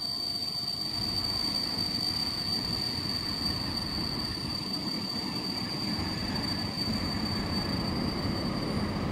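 Passenger train hauled by a PKP EP07 electric locomotive rolling into the platform. A rumble grows slowly louder, with one steady high-pitched squeal held over it that fades near the end.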